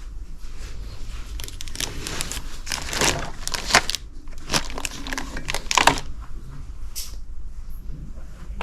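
Paper rustling and crinkling as sheets are handled and shuffled through by hand, busiest from about a second and a half in until around six seconds, then fading to a few faint rustles.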